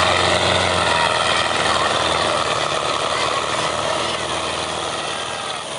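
Tractor diesel engine running steadily, slowly getting quieter near the end.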